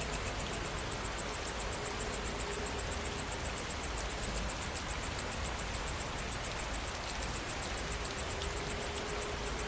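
Steady rain falling, with an insect calling throughout in a fast, even, high-pitched pulsing trill.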